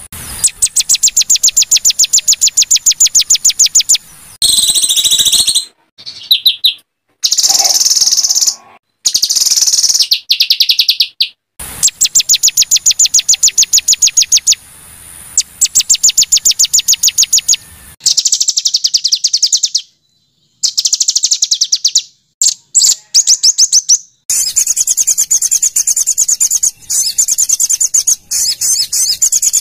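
Small songbirds singing rapid, harsh trills of high repeated notes, about ten a second, in spliced bursts that cut off abruptly between short silences: a masteran song-training recording of 'harsh bursts'.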